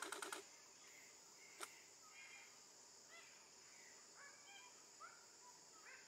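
Faint bird calls: short chirps and small rising whistles every half second or so over a steady high hiss, with a quick run of clicks at the start and a single click about a second and a half in.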